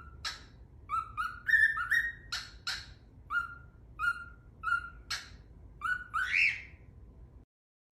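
A bird calling over and over in short chirps, about two a second, some of them louder and harsher. The calls stop abruptly near the end.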